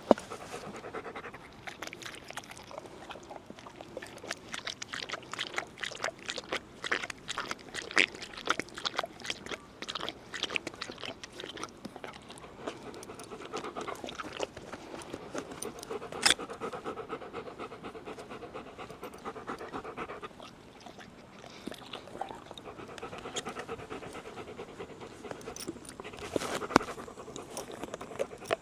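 German Shepherd dog panting steadily, mixed with many short clicks and scuffs.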